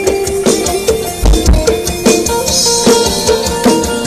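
Pop music with a steady drum-kit beat and heavy bass, played loud through a pickup truck's aftermarket car audio system.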